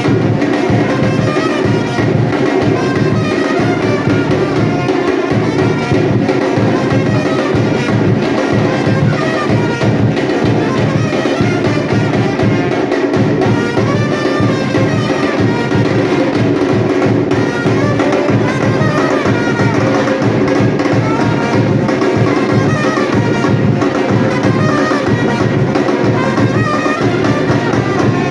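Batucada percussion ensemble drumming a loud, steady samba-style rhythm, with pitched melodic parts sounding over the drums.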